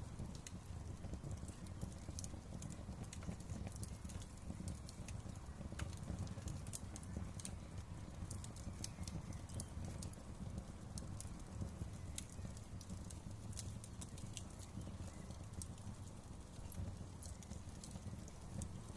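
Wood fire crackling: many irregular small snaps and pops over a steady low rumble of burning.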